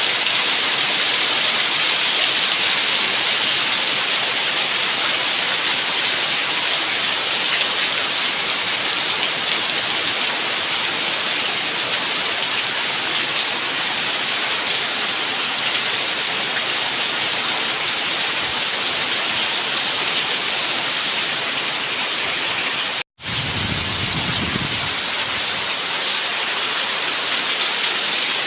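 Heavy rain pouring down steadily in a dense, even hiss. The sound cuts out for an instant about 23 seconds in, and a brief low rumble follows.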